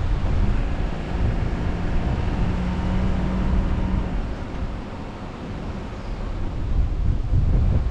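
A car driving, with wind buffeting the GoPro's microphone as a heavy, uneven rumble. A steady engine hum sounds through the first half.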